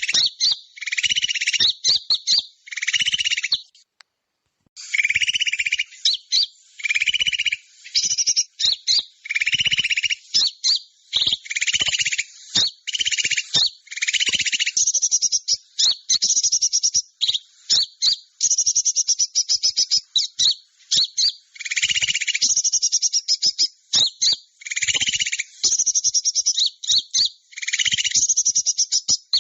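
Recorded small-bird lure call (suara pikat): rapid, buzzy, high chirping trills repeated in short bursts, with a brief break about four seconds in.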